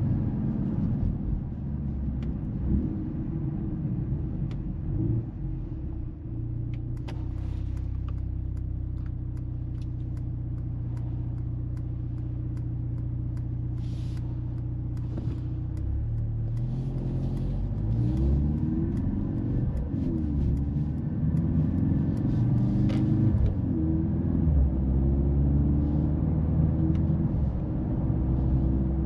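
Mercedes-AMG GLC 43 Coupe's turbocharged four-cylinder engine running on the road. The engine note holds steady for a while, then rises and falls several times in the second half as the car accelerates and changes gear.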